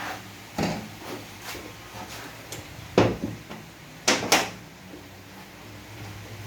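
Scattered knocks and clicks of automatic-transmission parts being handled during a 5R55S teardown, the loudest about three seconds in and a close pair just after four seconds.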